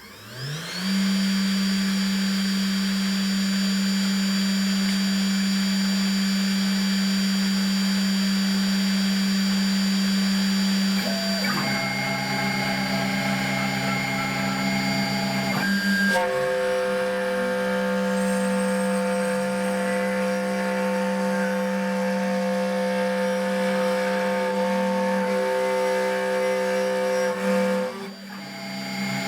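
CNC router spindle spinning up in the first second, then running at a steady pitched hum while the machine cuts MDF. From about eleven seconds in, the stepper motors' whining tones come and go and change pitch in steps as the axes move. The sound drops briefly near the end before carrying on.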